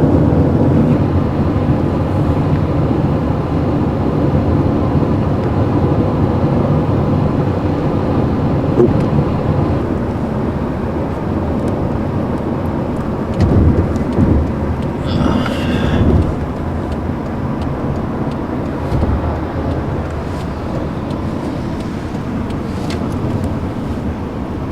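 Steady low rumble of a moving vehicle heard from inside, with a short louder patch and a brief pitched sound about halfway through.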